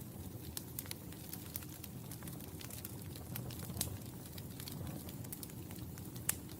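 Wood fire burning in a fireplace: a low, steady rumble of flames with frequent sharp crackles and pops, one larger pop a little past the middle and the loudest just before the end.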